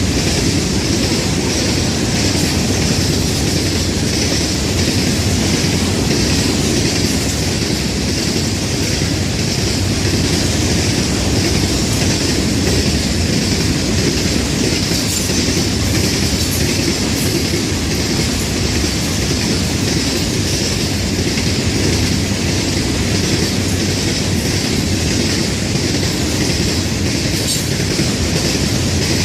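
Florida East Coast Railway freight train's cars rolling steadily past: continuous wheel-on-rail rumble and clatter.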